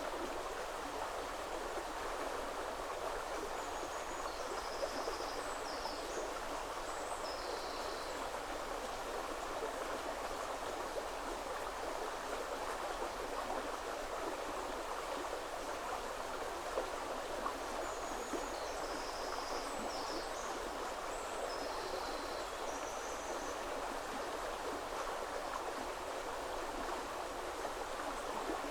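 A woodland river flows steadily with an even rushing, and a small bird sings a short, high phrase of quick notes twice: about four seconds in, and again around eighteen seconds in.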